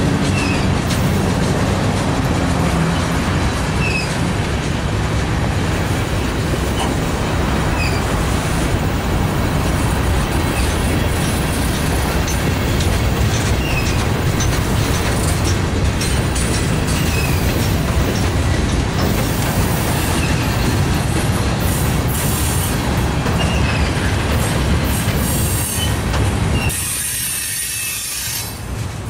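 Loaded freight cars of a manifest train rolling past close by: a steady wheel-and-rail rumble with faint short wheel squeaks every couple of seconds. The rumble eases a little near the end.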